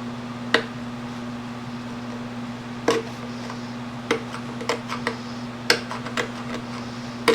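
Scattered sharp clicks and taps, about seven spread over several seconds, from handling the plastic motocross gas tank and tools, over a steady low electrical hum.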